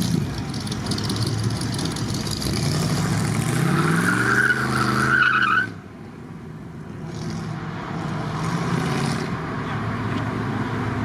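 Car engine running and revving, its pitch rising and then falling, until the sound cuts off abruptly a little past halfway. Engine and road noise then slowly build again.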